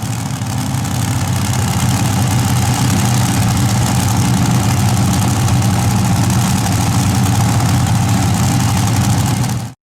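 Pulling tractor's engine running steadily and loud at a constant speed. The sound stops abruptly near the end.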